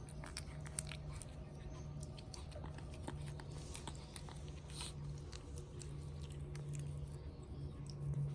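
Shih Tzu puppies chewing and biting, with many small scattered clicks and crunches over a steady low hum.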